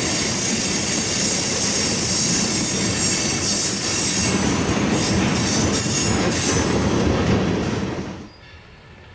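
Train cars rolling past close by, with steel wheels squealing against the rail in high, thin tones. The sound drops away abruptly about eight seconds in.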